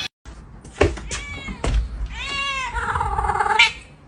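A cat meowing several times, the last call longer and lower. There is a sharp knock a little under a second in.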